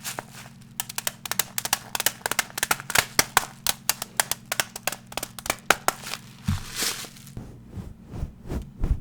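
Rapid, irregular tapping on a hard object close to the microphone, several taps a second, broken about two-thirds of the way through by a short scratchy brushing sweep before the tapping resumes.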